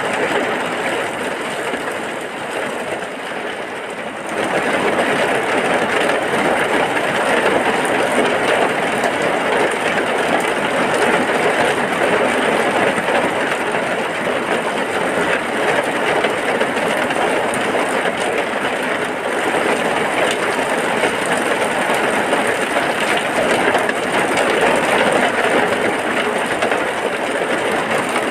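Heavy rain falling steadily as a dense, even hiss that grows louder about four seconds in.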